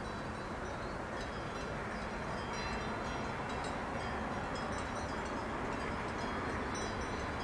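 Electric passenger train approaching on the line, its rolling rumble growing slowly louder, with scattered short high tinkling tones over it.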